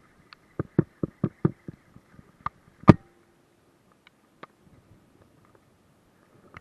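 A quick run of sharp clicks or knocks, about five a second, then two louder knocks near the three-second mark and a few faint ticks after.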